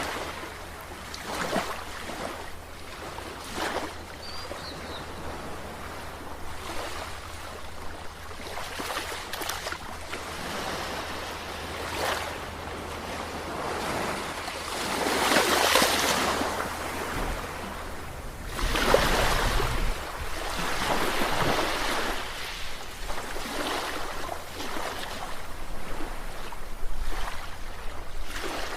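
Ocean waves washing in and breaking, the surf swelling and fading in slow surges, with the two biggest breakers about halfway through and a few seconds later.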